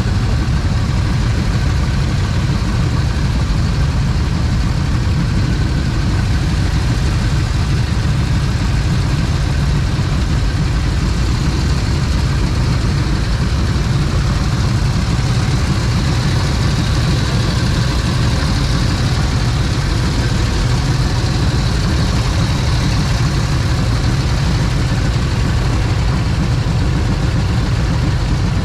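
A motorcycle engine running steadily under a loud, even low rumble that sounds like strong wind buffeting the microphone.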